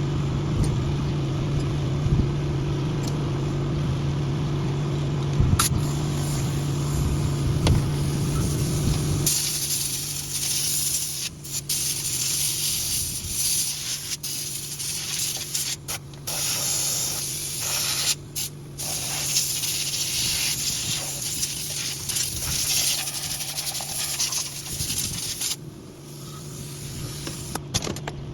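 A steady low machine hum, then from about a third of the way in a loud spraying hiss that cuts off and resumes several times.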